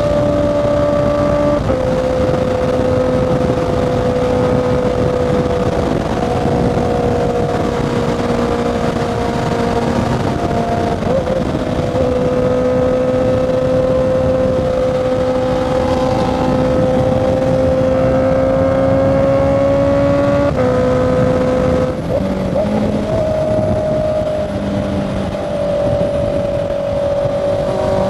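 Honda CB650R's inline-four engine cruising at highway speed, a steady note that steps down and back up a few times with throttle and gear changes, over wind rush.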